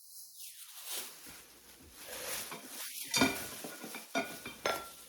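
Rustling of collectibles being handled and unpacked, with a few light clinks of hard objects knocking together, the loudest about three seconds in.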